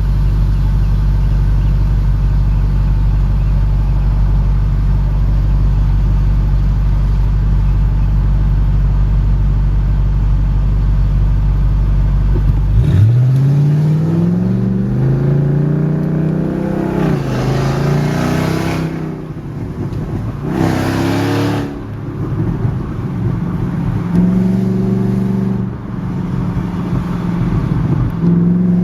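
2001 Audi S8's 4.2-litre V8 running with its mufflers bypassed, the exhaust separated between the catalytic converters and the mufflers: a steady low drone, then about halfway through the revs climb and fall several times as the car accelerates.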